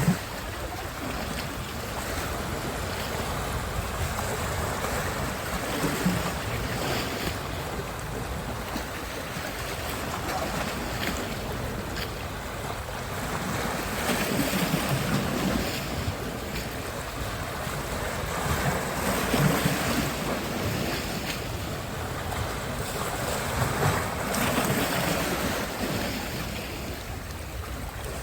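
Sea waves washing onto the shore, the surf swelling and easing every several seconds, with wind rumbling on the microphone.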